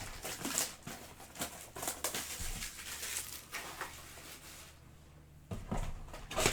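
Foil trading-card packs being handled and stacked, their wrappers crinkling with light taps, then a few louder knocks near the end.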